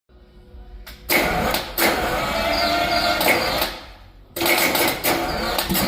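Detroit Diesel 12V71 twin-turbo two-stroke V12 diesel running in loud surges. A faint low hum comes first; the engine turns loud about a second in, drops back briefly about four seconds in, then comes up loud again.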